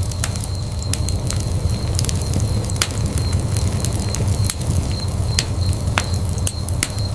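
Wood fire in a fireplace burning, with a steady low rumble of flame and irregular sharp crackles and pops, several each second.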